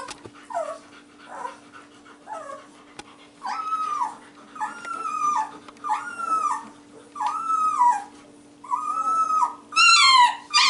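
Young Shiloh Shepherd puppy crying: a few soft falling whimpers, then louder high-pitched cries about once a second, each rising and falling, getting louder near the end. A steady low hum runs underneath.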